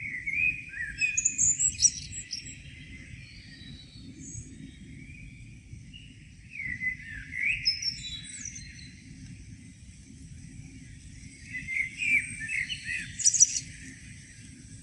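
Songbirds singing in the morning: three bursts of varied, high-pitched song, each lasting two to three seconds, about five seconds apart, over a steady low rumble.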